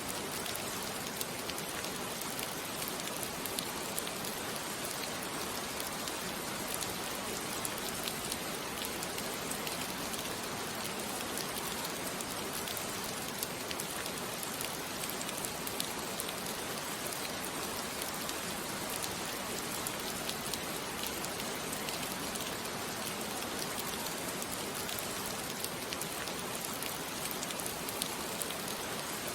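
Steady rain falling on a surface, a continuous even hiss with faint scattered drop ticks, unchanging throughout.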